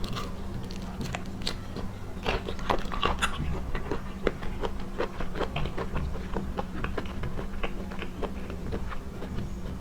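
Close-up eating sounds: someone chewing seafood, with many short, irregular crunchy clicks and wet mouth sounds.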